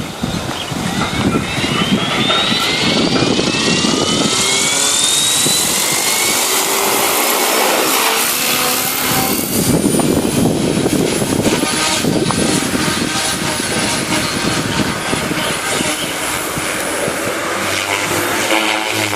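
Devil 380 RC helicopter running, its motor and rotor whining. The whine rises in pitch over the first few seconds, then holds at a steady high pitch, over a fluctuating rumble.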